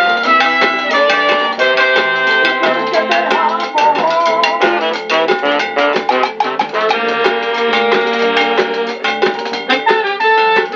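Instrumental break of a Latin tropical dance song played by a band: guitar melody lines over a steady drum beat.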